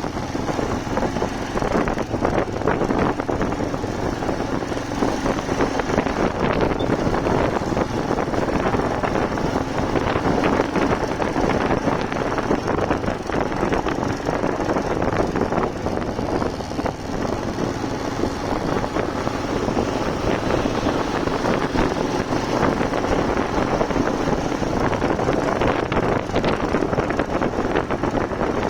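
Motorcycle engine running steadily on the move, under a dense, even rush of noise.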